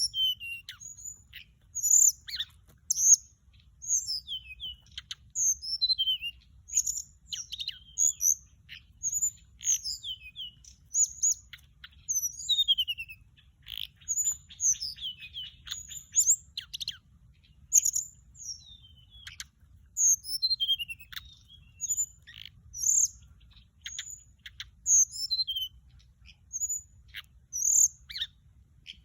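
Song of the orange-breasted, white-bellied flycatcher (Thai นกจับแมลงอกส้มท้องขาว), played as a lure call: a continuous run of short, high, sharp whistled notes and down-slurred phrases, several a second, over a faint low hum.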